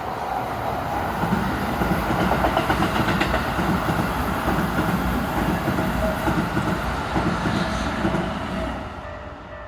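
A train passing over a level crossing, its wheels clattering rhythmically over the rails. The clatter builds, holds, and then fades near the end as the train goes by.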